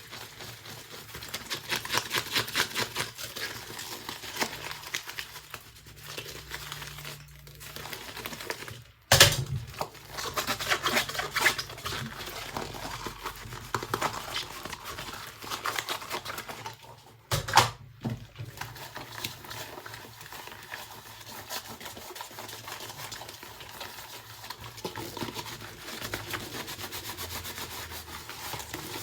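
Dishes being washed by hand: steady rubbing and quick light clinks, with two sharp louder knocks, about nine seconds in and again just past seventeen seconds.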